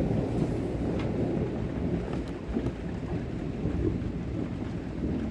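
Thunder rumbling low and steady through a rainstorm, with rain hissing and a few faint sharp ticks.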